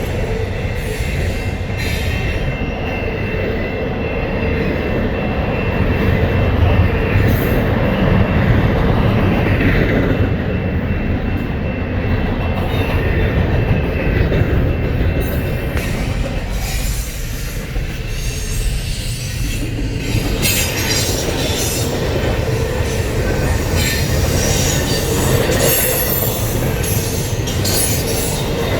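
A very long freight train of over 200 cars rolling past: a steady rumble of wheels on rail with a faint, steady wheel squeal, and clacks over the rail joints that become more frequent in the last third.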